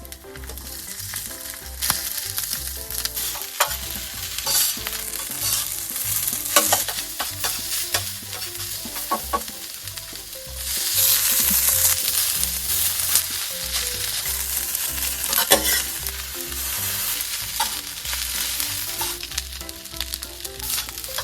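Egg fried rice sizzling in a hot pan while a spatula stirs and scrapes it, with sharp clicks of the spatula against the metal. The sizzle swells louder about ten seconds in.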